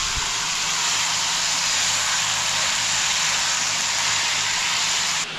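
Chopped flat beans (ghevda) sizzling in hot oil in a steel kadhai as they are stirred with a wooden spatula: a steady hiss that cuts off abruptly near the end.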